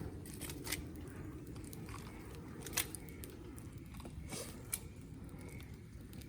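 Wood fire crackling over a steady low hiss, with a few sharp pops, the loudest about three seconds in.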